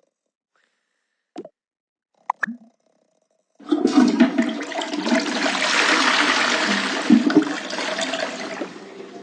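A few brief short sounds, then a sudden loud rushing noise starting about three and a half seconds in that swells and then slowly fades.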